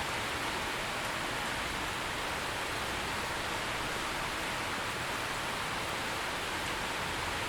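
Steady heavy rain falling, an even hiss without individual drops standing out.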